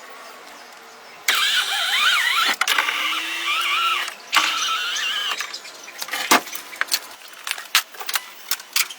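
A motor whining with a wavering pitch in two spells, followed by scattered clicks and knocks.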